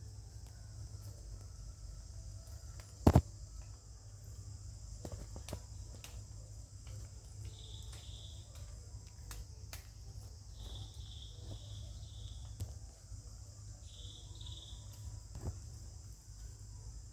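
Steady high-pitched drone of forest insects such as crickets or cicadas, with short clusters of high chirps now and then. A single sharp knock about three seconds in is the loudest sound, with a few fainter clicks later.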